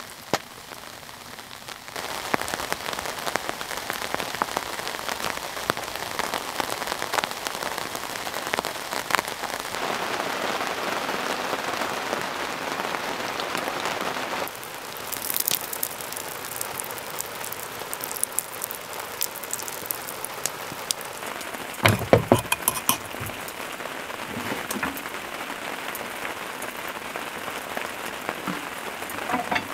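Steady rain falling, with a dense patter of drops on the fabric awning overhead. A short cluster of sharp knocks comes about two-thirds of the way through.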